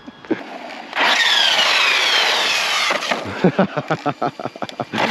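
RC monster truck's motor whining under full throttle, its pitch falling over about two seconds along with a hiss of tyres, followed by a run of sharp clicks and knocks.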